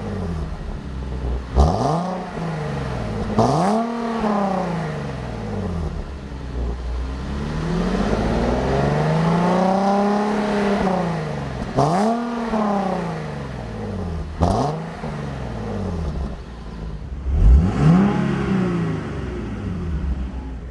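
2011 Nissan 370Z's 3.7-litre V6 with dual exhaust being revved while parked: a series of about six throttle blips, most of them quick sharp rises and drops, and one slower, longer rev in the middle, settling back toward idle between them. It has a beautiful engine note.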